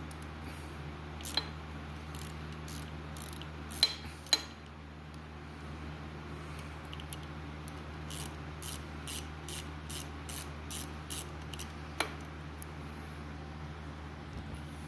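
Hand tools working on the dirt bike's engine: a few sharp metal clinks, and runs of quick, evenly spaced clicks like a socket ratchet turning a nut loose. A steady low hum runs underneath.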